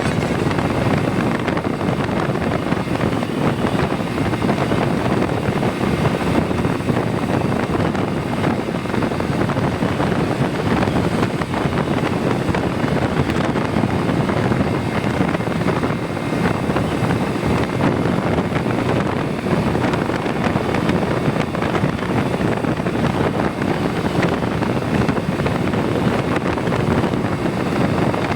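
Steady rush of wind and road noise from a moving motorcycle, with wind buffeting the microphone and no single event standing out.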